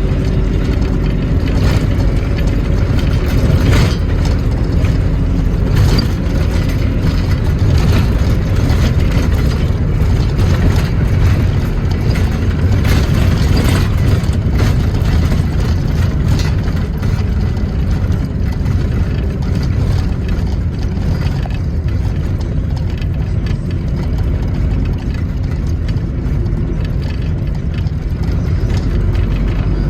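A motor vehicle's engine running steadily under a heavy low rumble, with scattered rattles and clicks.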